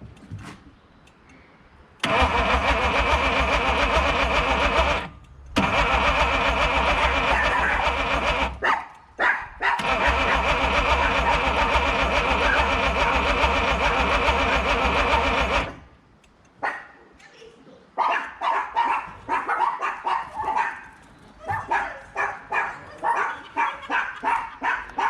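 The straight-six of a 1955 Mercedes-Benz 220a being cranked on the starter motor in three goes, a few seconds each with short breaks between, as the engine is tried on a little fuel put into a drained system. Near the end a dog barks repeatedly.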